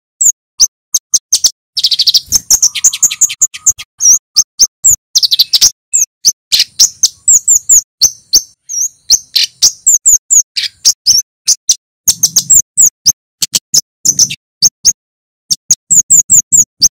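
Male kemade, a small flowerpecker, singing a fast, loud string of sharp high 'cit' chips, with a quicker rattling run of notes about two seconds in.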